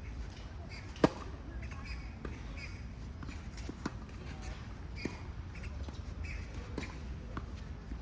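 Tennis ball struck sharply once about a second in, followed later by a few fainter knocks of the ball.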